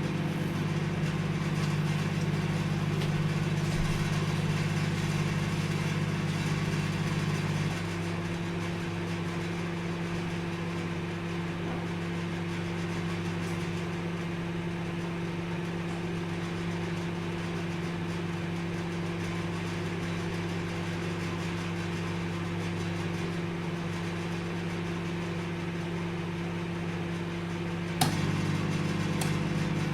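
Microwave oven running with a steady hum. About eight seconds in, the heavier part of the hum drops away to a lighter tone; near the end a sharp click brings the heavier hum back.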